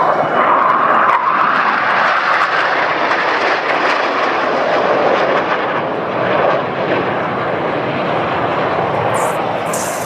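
Northrop F-5E Tiger II jets flying past, the roar of their J85 turbojets loudest about a second in and slowly easing off toward the end. Two brief high hisses near the end.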